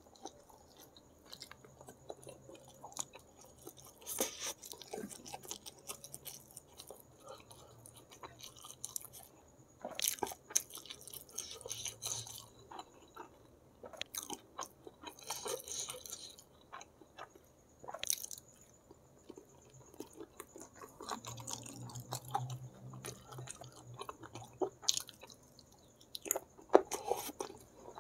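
Close-miked eating sounds of spicy chicken feet and instant noodles eaten by hand: wet chewing with irregular smacks, clicks and slurps. A few louder clusters of mouth noise come around 4, 10–12 and 15–16 seconds in.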